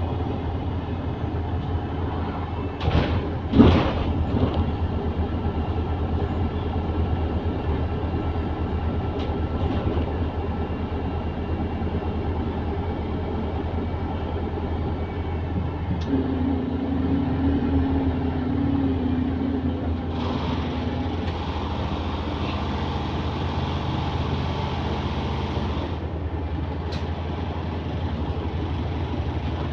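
A London double-deck bus's running noise heard from inside the saloon: a steady low engine and road drone. Two sharp knocks come about three to four seconds in, and a hiss lasts several seconds about two-thirds of the way through.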